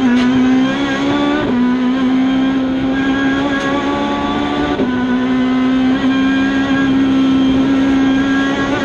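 Ford Fiesta rally car's engine heard from inside the cabin, running hard at high revs on a rally stage. Its pitch climbs slowly, then drops sharply about a second and a half in and again near five seconds, as at gear changes.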